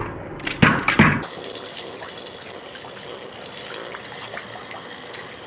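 Two sharp clicks about half a second and a second in, then steady rain falling with scattered drip ticks.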